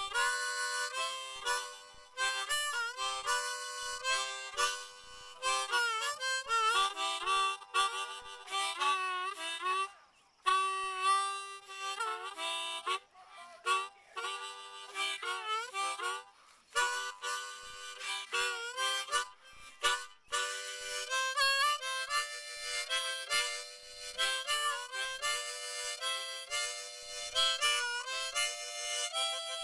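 Harmonica music playing several notes at once, with notes bent up and down and a few brief breaks between phrases.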